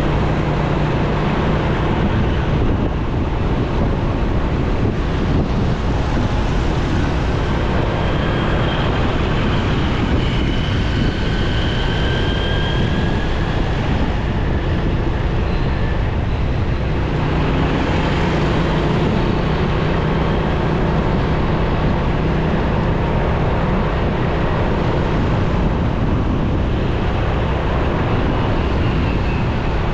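On-board sound of a motorcycle riding through city traffic: the engine runs steadily under constant wind and road noise.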